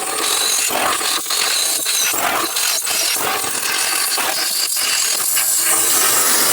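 Tool work on a collapsed steel boiler tube to free it from a traction engine's tube plate: a steady harsh noise broken by many irregular metal knocks.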